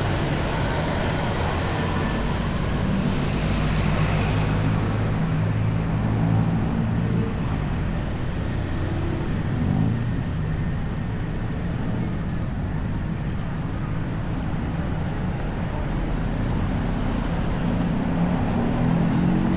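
Street traffic: vehicle engines running close by, with a steady low engine hum over road noise. Near the end an engine revs up, its pitch rising.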